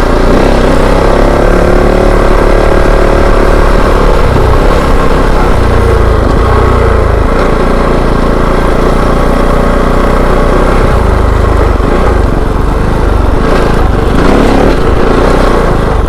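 Kove 450 Rally's single-cylinder engine running as the motorcycle is ridden over dirt, its pitch rising and falling a little with the throttle.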